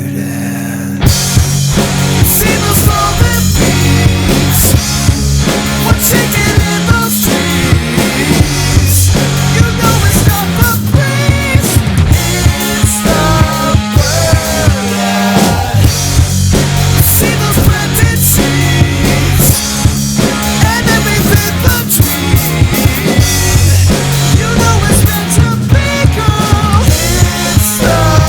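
Rock band playing an instrumental passage: drums, bass and guitar come in together about a second in and play on with a steady beat, with no one singing.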